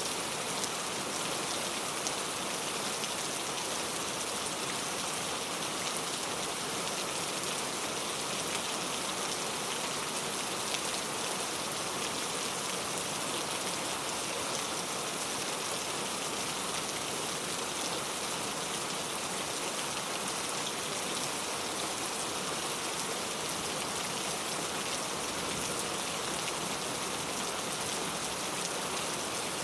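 Steady rain falling, with fine patter of drops on surfaces.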